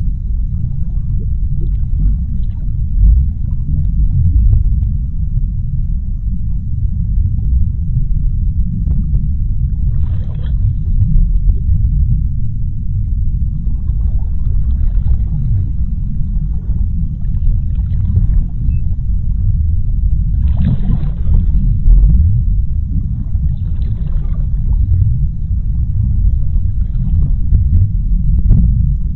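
Underwater sea-floor ambience: a steady deep rumble, with brief hissing swells rising above it every few seconds.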